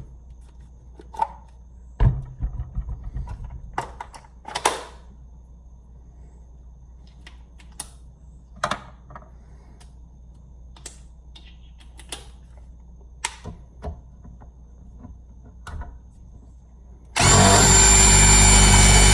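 Scattered clicks and knocks of a bolt and tool being handled, then near the end a Ryobi 18-volt cordless impact driver runs loud and steady for the last couple of seconds. It is trying to drive a bolt that will not catch without a proper pilot hole.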